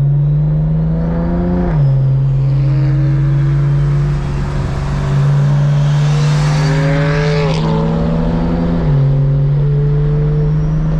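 Turbocharged car engine accelerating under load, heard from inside the car. Its pitch climbs, drops at a gear shift about two seconds in, climbs again through a longer pull, and drops at another shift about three-quarters of the way through. A faint high whine runs over it.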